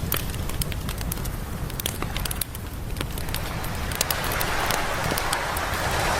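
Campfire crackling with many sharp pops, over a steady low rumble of surf. Near the end a wave swells and washes in, a rising rush of noise.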